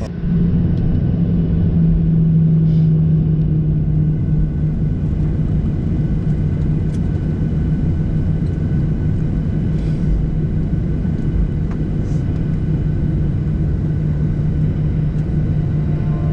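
Steady cabin noise inside a Boeing 737-800 airliner: a constant low hum and rumble that swells just after the start and then holds level, with a few faint ticks.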